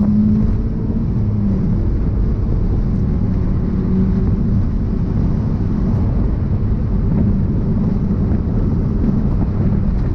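Mazda NA MX-5's four-cylinder engine running under load as the car is driven at speed, heard from inside the cabin over steady road noise.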